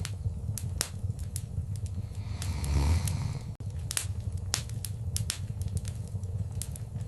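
Wood fire in a fireplace crackling, with many sharp, irregular pops over a steady low rumble of flames. The rumble swells louder for about a second around the middle.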